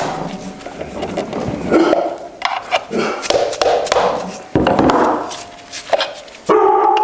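Sharp metal knocks and clanks from tools on a transmission being taken apart, mixed with a dog barking on and off.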